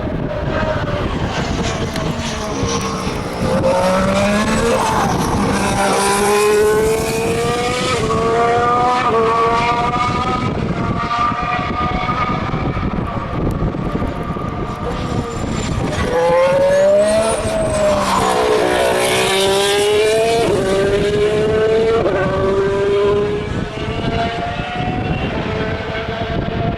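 2014 Formula 1 cars' 1.6-litre turbocharged V6 hybrid engines accelerating up through the gears, the pitch climbing and dropping sharply at each upshift. Cars pass about four seconds in and again about seventeen seconds in.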